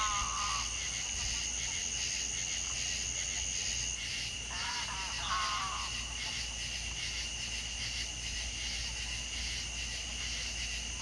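Night-time-style chorus of insects such as crickets, a steady high trilling in two pitches; the higher one stops about four seconds in. Short lower calls break in at the start and again about five seconds in.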